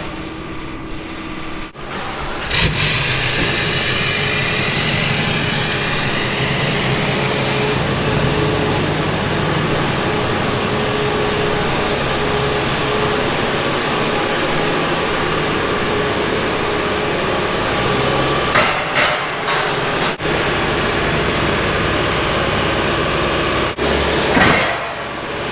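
An engine starts about two and a half seconds in and then runs steadily, with a few brief knocks later on.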